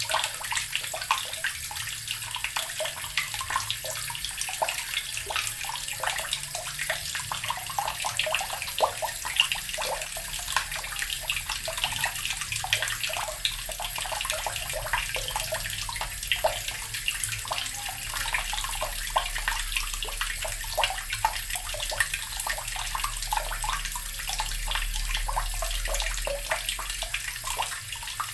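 Water running steadily from a tap and splashing, a continuous hiss with small, dense splashes.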